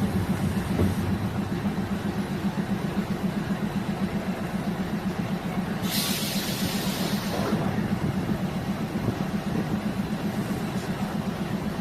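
Diesel multiple unit railcar running with a steady low engine drone. About six seconds in comes a short hiss lasting a second or two.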